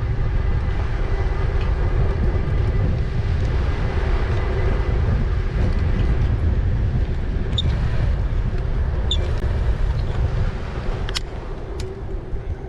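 Riding on an e-bike: wind buffeting the microphone over tyre rumble, with a faint steady whine underneath. Near the end it quietens, and a few sharp clicks come through.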